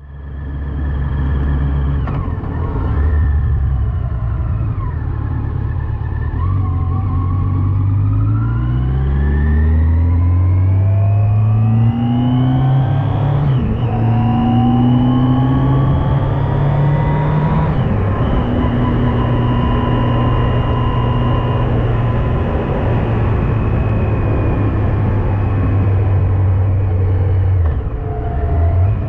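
Yamaha FJR1300AE's inline-four engine accelerating up through the gears, its pitch climbing and dropping back at each shift several times, then running at a steady cruising pitch, with a constant rush of wind and road noise.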